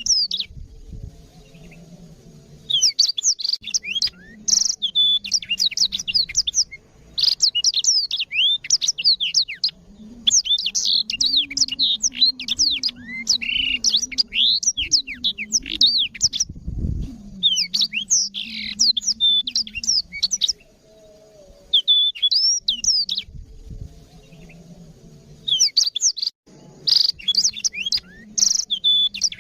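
Black-throated canary (blackthroat) singing: long, rapid bouts of high, twittering chirps and trills, broken by short pauses between phrases, over a faint low hum.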